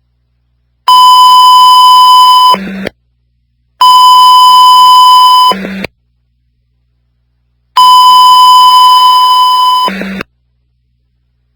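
Fire dispatch radio alert tones: three long, steady, high-pitched beeps, each about a second and a half long, each ending in a short burst of radio squelch noise.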